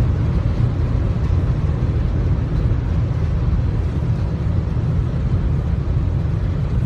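Steady road and engine rumble inside a car's cabin at highway speed, a constant low drone.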